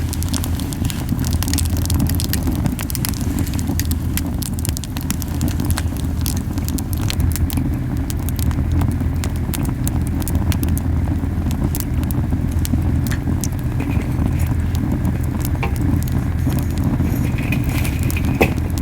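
Campfire of camellia wood burning hot, with frequent sharp crackles and pops over a steady low rumbling of the flames. The heavy rumble comes from the fire burning too strongly.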